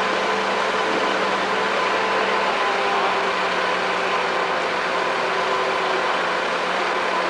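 An engine running steadily, with a constant hum and hiss.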